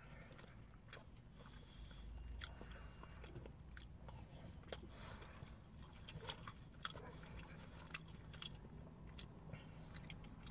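Faint chewing of poutine (fries, cheese curds and gravy), with small wet mouth clicks scattered throughout over a low steady hum.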